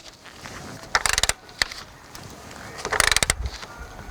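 Ratchet wrench clicking in two short, rapid bursts, about a second in and again about three seconds in, as a seat belt mounting bolt is turned.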